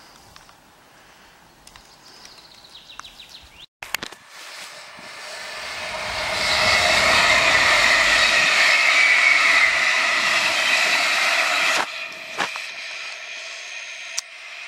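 A Munich S-Bahn class 423 electric train passing close by at speed. The rush of wheels on rail builds over a couple of seconds, holds loud, and cuts off suddenly about twelve seconds in. A quieter, steady train noise follows.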